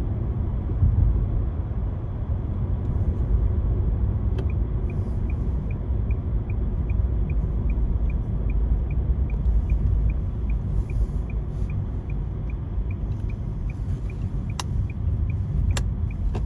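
Steady low rumble of a car driving, heard from inside the cabin. About four seconds in a faint, regular ticking starts at about two ticks a second, and two sharp clicks come near the end.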